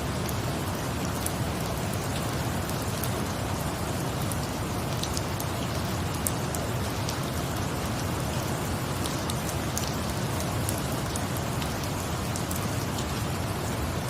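Steady rain falling, mixed with the light crackle of a wood fire: scattered sharp ticks over an even hiss.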